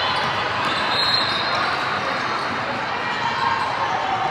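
Basketball game in a gym: a ball bouncing on the court over steady background chatter and noise from players and spectators.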